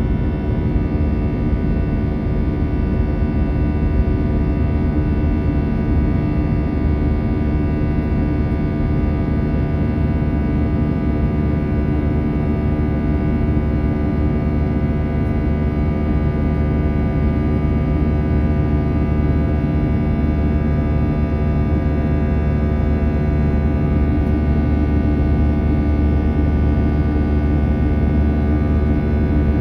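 Airbus A319 jet engines and airflow heard from inside the passenger cabin during takeoff: a loud, steady drone with a deep rumble and many fixed whining tones above it, growing slightly louder near the end.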